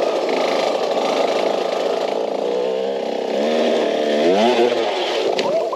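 Two-stroke dirt bike engine running and being revved. Its buzzing pitch rises and falls repeatedly, most clearly between about three and a half and four and a half seconds in.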